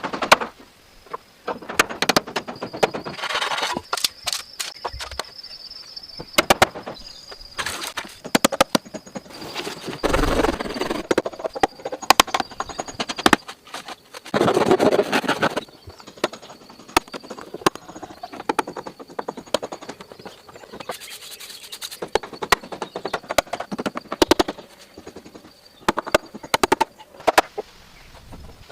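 Hand work with tools and materials: irregular sharp knocks, taps and clicks, with a few longer noisy stretches. A faint steady high tone runs through the first half.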